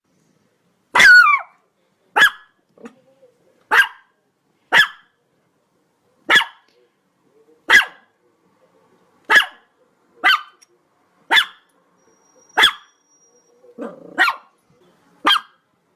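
A dog barking in single sharp barks, about a dozen of them spaced roughly a second apart; the first bark is longer and falls in pitch.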